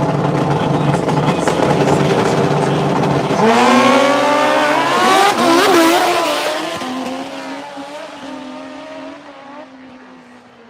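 Drag racing motorcycles holding revs at the start line. About three seconds in they launch, the engine pitch climbing steeply and stepping at gear changes. The sound then fades as the bikes run away down the track.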